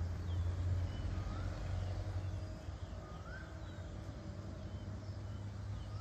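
A few short whistled bird calls, some rising in pitch, over a steady low rumble.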